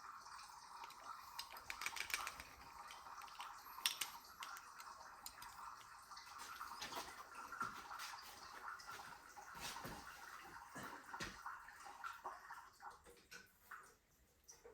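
Faint, scattered clicks and taps of small metal carburetor parts and hand tools being handled during disassembly, over a faint steady hiss that fades out near the end.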